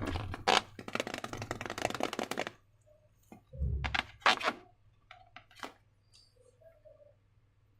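Slime being squished and handled by hand, making a dense run of sticky crackling clicks for about two and a half seconds. Then come a few scattered sharp clicks and a soft thump.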